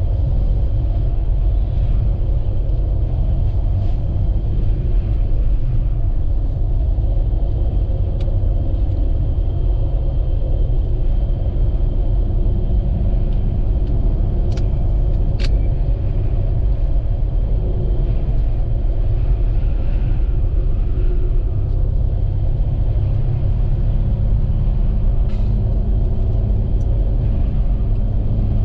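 Steady low rumble of a vehicle driving on a snowy road, with engine and road noise, and two faint clicks about midway.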